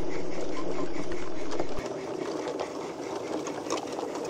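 Model garden railway goods train running along the track, a quick rhythmic mechanical clatter from the locomotive and wheels on the rails. The sound drops clearly quieter a little under two seconds in.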